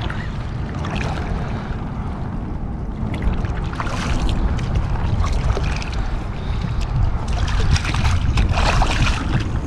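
Wind rumbling on the microphone over water around a kayak, with bursts of splashing and knocking about four seconds in and again near the end, as a freshly landed sheepshead is brought in.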